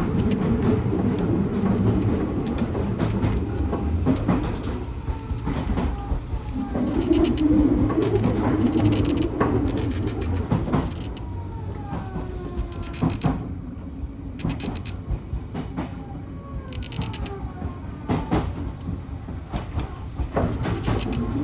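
Odakyu 1000-series electric train running, a steady rumble with wheels clicking over rail joints. About halfway through it gets quieter and several falling whines come in, consistent with the train slowing.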